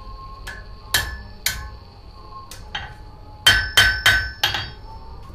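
Blacksmith's hammer striking hot mild steel on an anvil, forging it thinner: a few spaced light blows, then about three and a half seconds in a quick run of four heavier ringing strikes.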